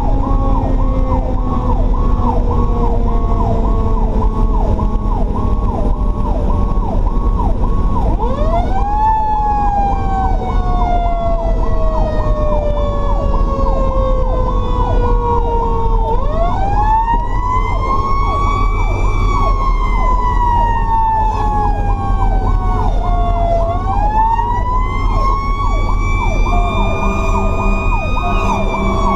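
Fire truck running code: a Federal Q mechanical siren winds up three times, each time coasting slowly back down in pitch, over a fast-cycling electronic yelp siren and the low rumble of the truck's engine.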